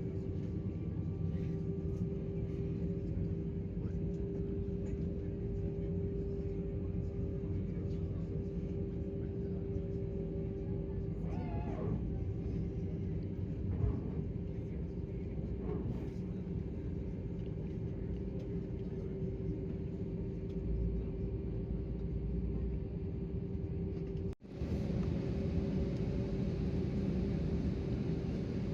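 Steady Airbus A320 cabin noise: the engines' constant hum with a held tone over a low rumble. The sound drops out suddenly for a moment about three-quarters of the way through, then returns.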